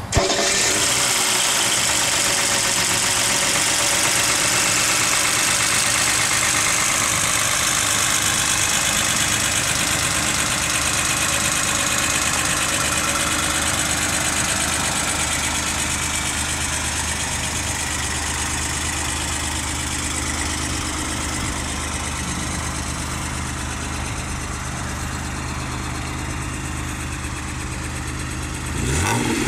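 1979 Mercedes-Benz 280SL's 2.8-litre inline-six idling steadily, the sound easing slightly over the half minute.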